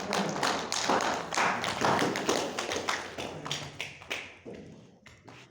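Audience applauding: many hands clapping densely, then thinning out and dying away to a few last claps near the end.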